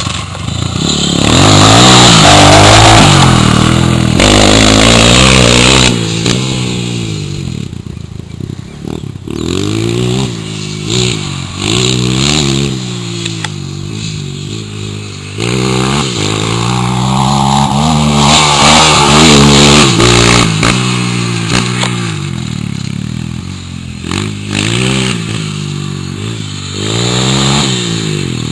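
Honda CRF230 dirt bike's single-cylinder four-stroke engine revving hard. Its pitch climbs and falls over and over as the throttle is worked around a motocross track, loudest in the first few seconds.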